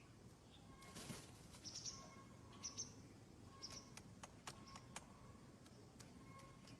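Near silence, with a few faint, short, high chirps like a small bird's and several soft clicks.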